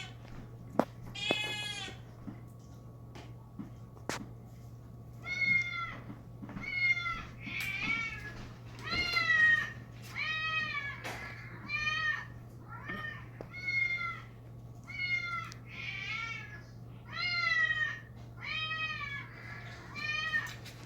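A kitten mewing over and over: about a dozen short, high calls that each rise and fall, roughly one a second, with a single earlier mew a second or so in.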